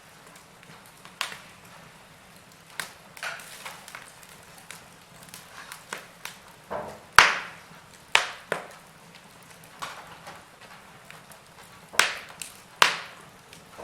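Wood logs burning in a fireplace, crackling with irregular sharp pops and snaps. The loudest snaps come about halfway through and twice near the end, over a faint low hum.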